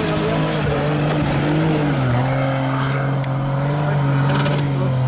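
A 4x4's engine running hard under load on a loose off-road climb, its note stepping down a little about two seconds in, with wheels spinning and spraying sand.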